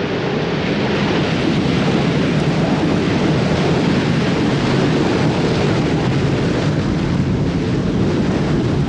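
Steady rushing noise of strong typhoon wind, buffeting the microphone.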